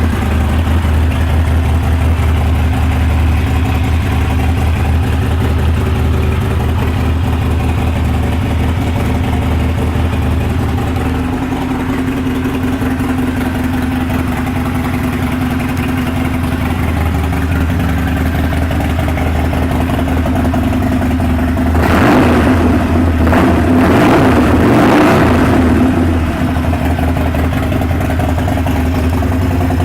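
2012 Harley-Davidson Sportster 1200 Nightster's air-cooled V-twin idling steadily, then revved with a few throttle blips about two-thirds of the way in before settling back to idle.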